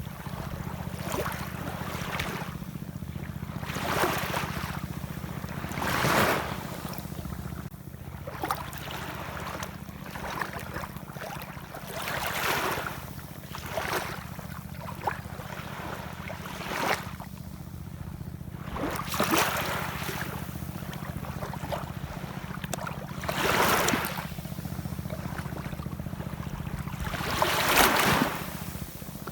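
Ocean waves washing and splashing in irregular surges every few seconds, over a steady low rumble.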